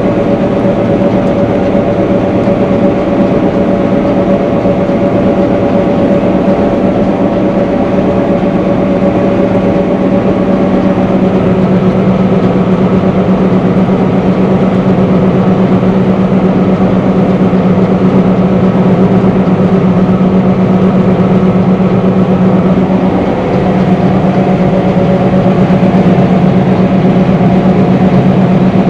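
Combine harvester running steadily while cutting rice, heard from inside the cab: a loud, even machine drone with a strong steady hum, dipping briefly about 23 seconds in.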